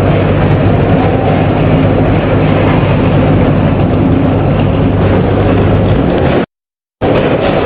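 Snack-food weighing and packing machine running: a steady mechanical rumble and hum with faint light clicks. The sound cuts out completely for about half a second near the end, then resumes.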